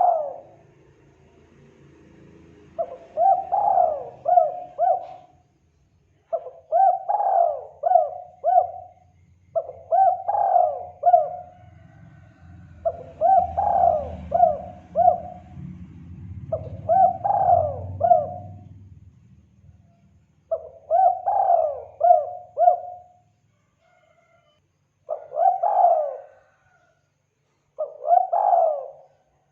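Spotted dove (tekukur) cooing: repeated phrases of three or four quick coos, a new phrase every three to four seconds, as used for a lure call to draw wild doves.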